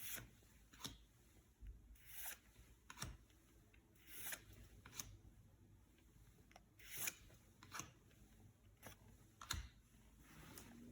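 Yu-Gi-Oh trading cards and booster-pack wrappers being handled: faint, soft swishes and light ticks, roughly one a second.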